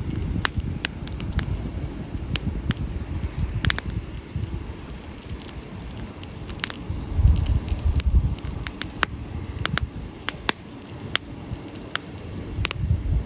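Burning firewood in a campfire crackling, with sharp pops at irregular intervals over a low, uneven rumble.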